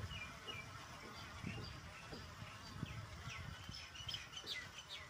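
Small birds chirping, many short quick falling notes that come thicker toward the end, over an uneven low rumble.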